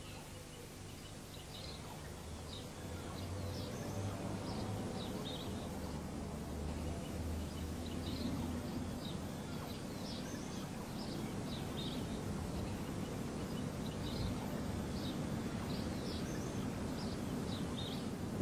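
Small birds chirping in short, repeated high phrases, over a steady background hiss and a low hum that fades about halfway through.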